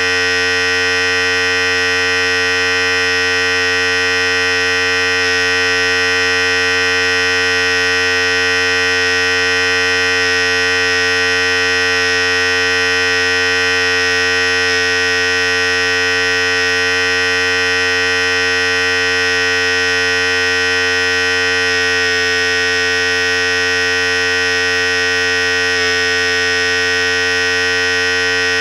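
Philips Series 5000 electric hair clipper running steadily, its motor and blades giving an even, constant hum with no change in speed.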